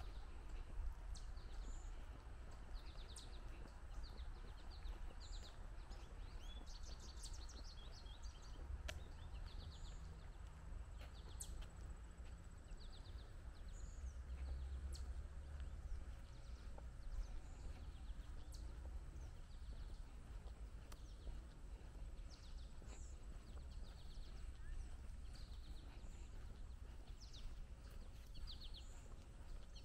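Small birds chirping in short high trills every second or two, over a steady low outdoor rumble.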